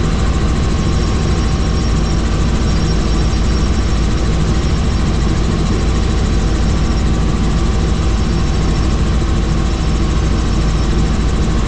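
Helicopter in flight: steady engine and rotor drone, with a thin high whine above it.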